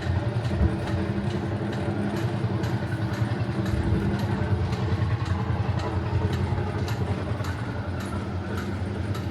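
Themed tractor ride vehicle running along its course: a steady, low engine-like hum with faint, regular ticking.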